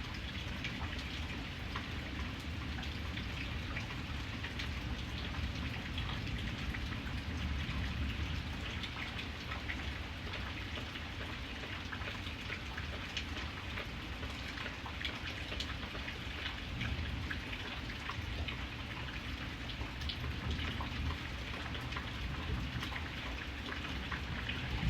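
Steady rain falling, with many small drops ticking on a surface over a low, even rumble.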